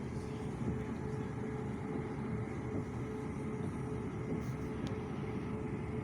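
Train running steadily, heard from inside: an even low rumble with a constant hum.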